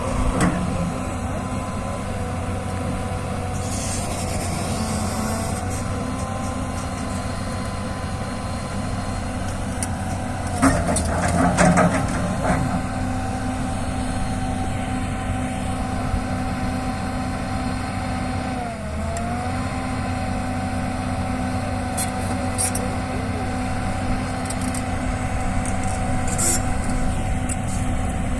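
Diesel engine of a forestry machine running steadily at a constant speed, with a brief dip in engine speed about nineteen seconds in. A short cluster of knocks and clanks sounds about eleven seconds in.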